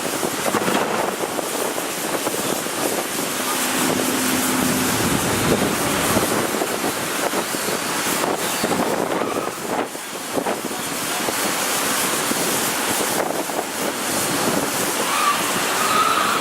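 Steady noise of road vehicles passing.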